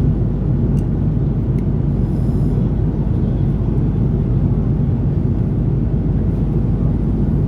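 Steady low rumble of cabin noise inside an Airbus A330-343 airliner, the engines and airflow heard from a window seat.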